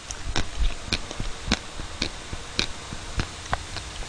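Close-up chewing of Baskin-Robbins chocolate mousse ice cream: the frozen chocolate chips inside crunch in sharp, irregular clicks, about three a second.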